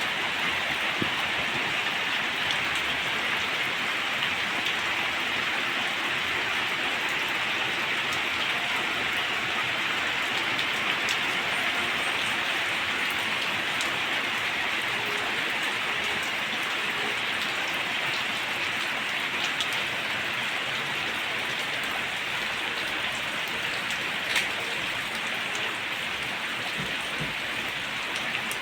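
Heavy rain falling steadily, an even hiss with scattered ticks of individual drops and one sharper tick late on.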